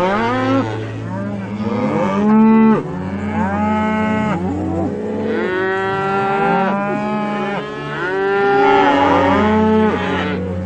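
Several cattle mooing, one long call after another with some calls overlapping, each rising and then falling in pitch.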